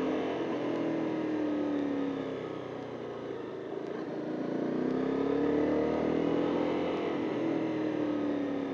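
2014 KTM Duke 390's single-cylinder engine under way: revs falling, rising again about halfway through, then falling once more.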